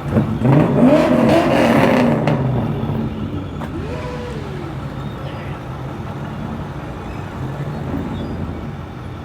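Car engine revving, loudest with rising pitch in the first two seconds, then settling into a steady low rumble.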